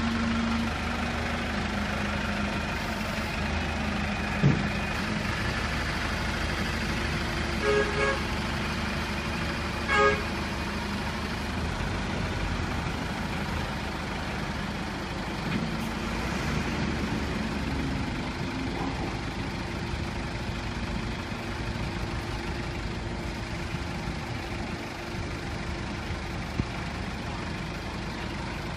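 Road wrecker truck's engine running steadily, with a single knock about four seconds in and three short, pitched beeps around eight and ten seconds in.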